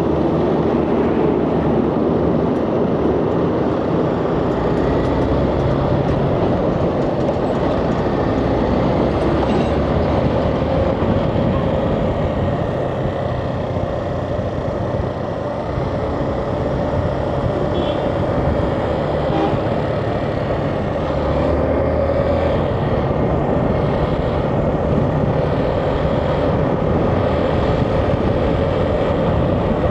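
Motorcycle engine running on the move, with wind and road noise, steady apart from a brief dip in level about halfway.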